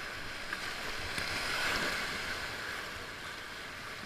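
Rushing whitewater of a river rapid: a steady wash of water noise that swells briefly about halfway through.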